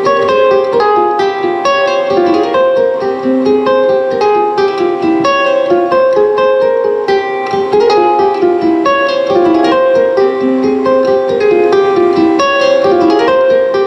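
A plucked string instrument played solo: a quick, unbroken run of picked notes.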